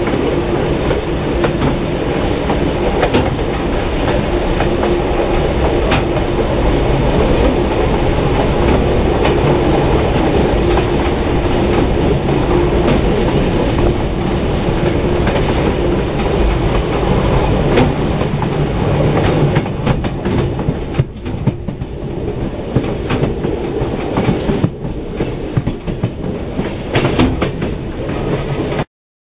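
Passenger train coach rolling along the track: a steady rumble and hum with wheels clicking over rail joints. The sound grows somewhat lighter after about two-thirds of the way through, then cuts off suddenly near the end.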